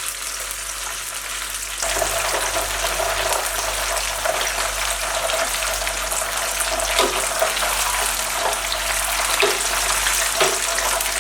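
Chicken pieces deep-frying in hot oil in a pan: a steady sizzle that grows louder about two seconds in, with a few light knocks.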